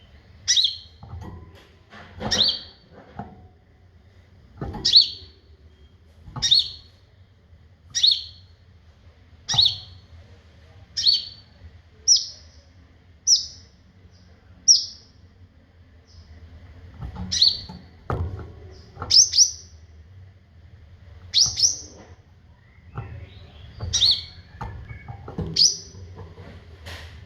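A kolibri ninja sunbird calling with short, sharp, high chirps, each dropping quickly in pitch. They repeat about every one to one and a half seconds, with a few given as quick doubles.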